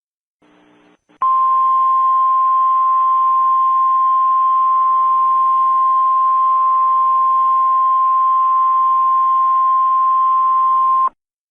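Simulated Emergency Alert System warning alarm: a single steady tone near 1 kHz, the NOAA Weather Radio-style 1050 Hz attention signal, over a faint hiss of radio static. It starts abruptly about a second in, holds for about ten seconds and cuts off sharply just before the end.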